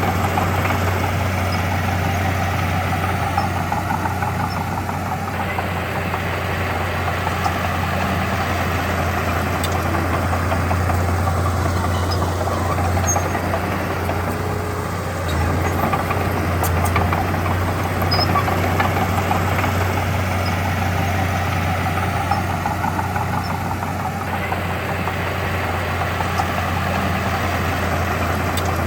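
Diesel engine of heavy earthmoving machinery running continuously, with a steady low hum whose level eases and rises slightly as the load changes.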